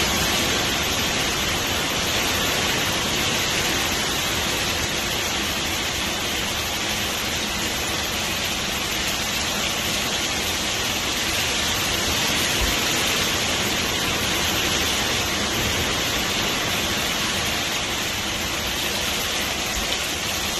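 Heavy wind-driven rain pouring down in a steady, dense hiss.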